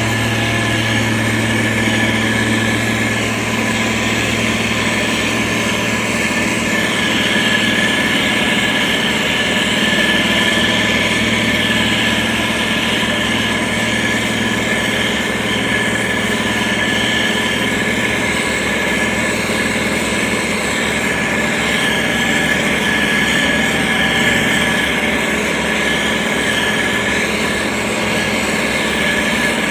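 Diesel engine of a SANY STG190C-8S motor grader running steadily, with a steady high whine alongside.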